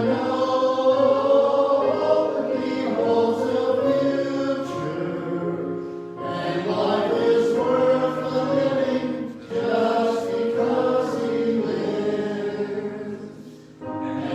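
A group of voices singing a hymn together in sustained phrases, with short breaks between lines about six seconds in, at nine and a half seconds, and near the end.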